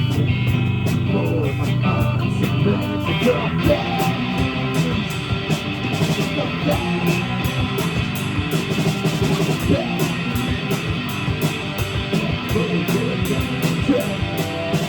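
Live rock band playing: electric guitar over a drum kit, with cymbals struck on a steady beat.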